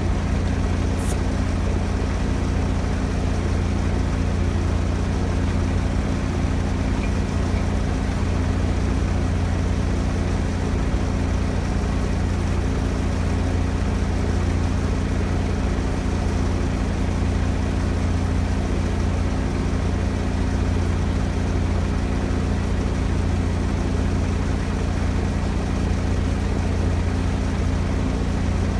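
Large diesel engine idling steadily with an even low hum.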